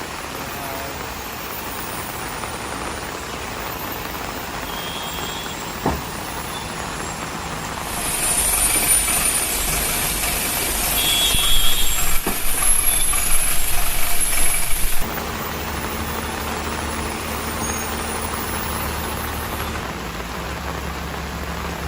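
Truck running on the road, with a sharp knock about six seconds in and a loud hiss lasting about seven seconds in the middle that cuts off suddenly; after it, a steady low engine hum.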